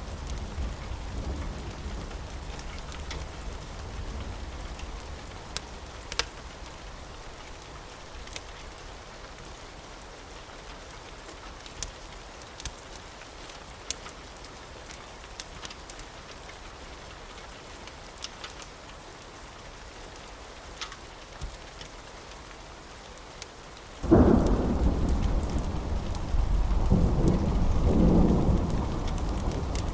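Steady rain with scattered sharp ticks. About 24 seconds in a thunderclap breaks suddenly and rumbles on, the loudest sound here.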